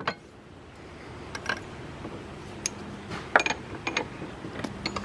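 Scattered light metal clinks and knocks as tools and small metal parts are set in place at a bench vise: a ratchet extension and a bronze diffuser plate.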